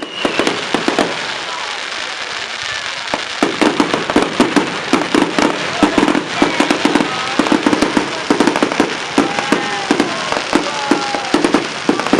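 Fireworks going off in dense clusters of rapid crackling pops over a continuous hiss.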